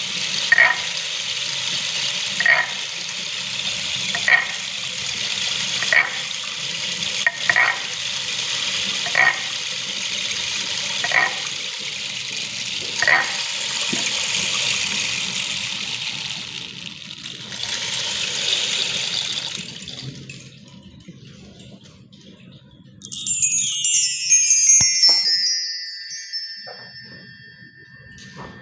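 Steady rush of flowing water with a short call repeating about every two seconds. The water stops about 20 seconds in, and a few seconds later a bright chime rings, its tones sliding down and then fading.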